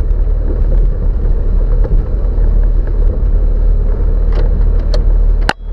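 Off-road 4x4's engine running steadily at low speed with a deep rumble, on a descent over a rough forest track, with a couple of knocks late on; the sound cuts off abruptly near the end.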